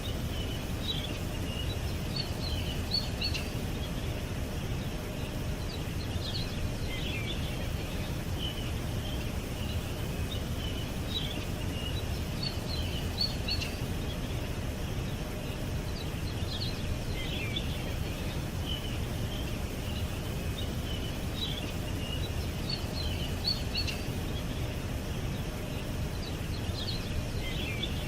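Small songbirds chirping and twittering in short, high, scattered calls over a steady low background rumble. The same run of chirps comes round again about every ten seconds.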